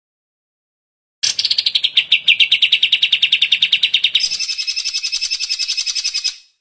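Cucak ijo (greater green leafbird) singing a fast, rapid-fire trill of repeated notes, about a dozen a second. It starts after a second of silence, switches about halfway to a higher, thinner run of notes, then breaks off.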